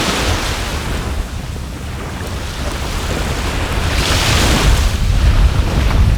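Sea waves washing on the shore, swelling near the start and again more strongly about four seconds in, over a constant low rumble of wind on the microphone.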